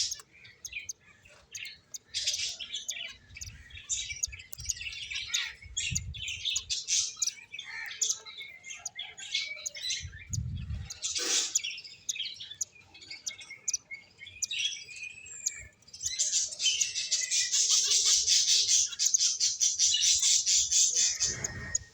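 Pet finches chirping, many short high calls overlapping, with a couple of soft low bumps in the middle. The chirping turns dense and louder in the last six seconds.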